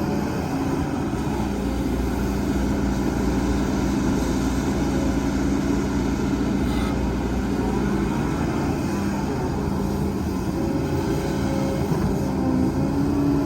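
Heavy diesel construction machinery running steadily: a continuous low engine rumble whose note rises slightly near the end.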